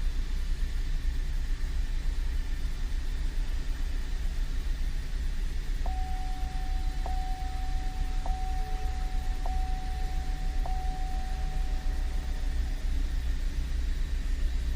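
2013 Cadillac CTS's 3.0 V6 and drivetrain running steadily during a vibration test run, with the driveshaft re-indexed one notch on the differential to cut a 40–45 mph vibration. From about six seconds in, a thin steady tone sounds for about six seconds, with five clicks about a second apart.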